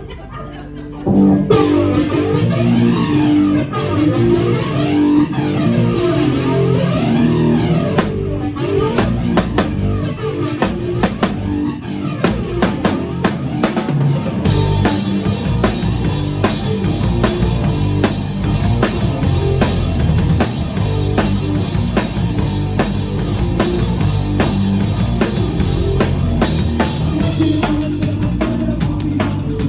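Live rock band playing a song on electric guitar, bass and drum kit, starting about a second in. About halfway through, the full kit comes in with cymbals and the band plays louder and denser.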